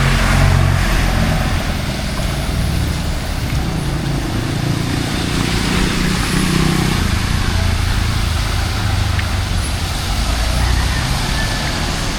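Heavy rain hissing steadily, with road traffic: the engines of passing and idling cars and trucks running low underneath.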